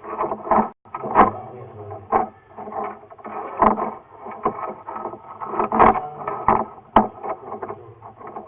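Drain inspection camera being pushed along a sewer pipe: irregular knocks and scraping over a steady noise, the loudest knocks about a second in, near the middle and about two-thirds of the way through.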